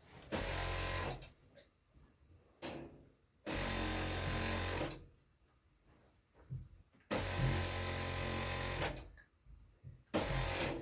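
Electric sewing machine stitching in four short runs, each starting and stopping abruptly with quiet pauses between them.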